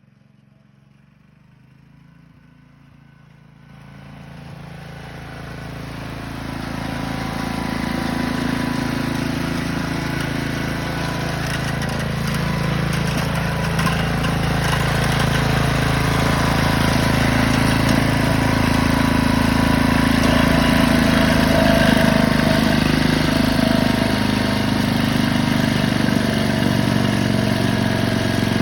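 Briggs & Stratton 19D single-cylinder engine on a Gilson-built Montgomery Ward garden tractor, running. It comes in about four seconds in, grows louder over the next few seconds, then runs steadily.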